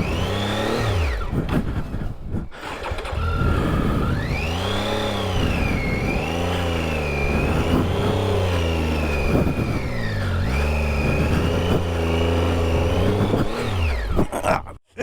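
Triumph Tiger 800 XCa's three-cylinder engine revving up and down over and over under load as the bike struggles up a loose, steep climb, its rear wheel digging in.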